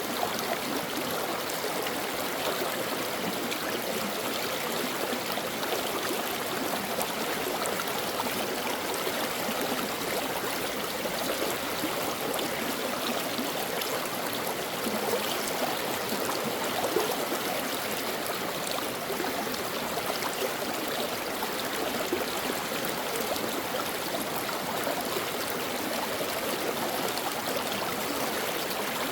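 Stream water flowing and babbling over rocks, a steady rushing with small gurgles and splashes.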